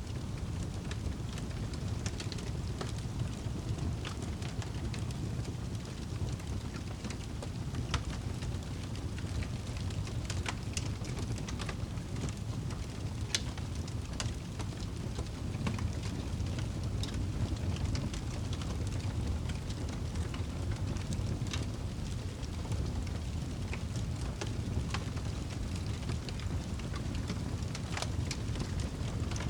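Wood logs burning in a fireplace: a steady low rumble of flame with scattered sharp crackles and pops.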